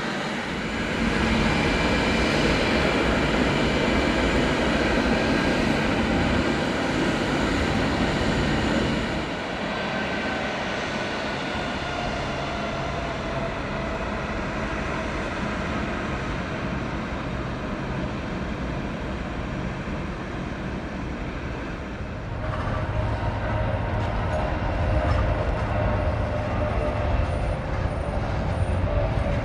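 Jet aircraft engines running on the ground, a loud steady noise. It grows louder about a second in, eases off around nine seconds in and builds again about 22 seconds in as the thrust changes.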